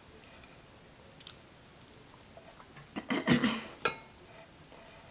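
Close-miked chewing and mouth sounds while eating with the fingers: a faint click about a second in, then a short run of loud smacks and clicks about three seconds in.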